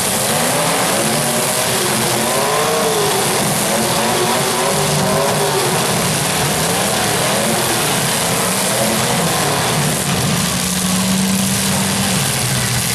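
Several demolition derby car engines running and revving together, their pitches rising and falling as the cars push against each other.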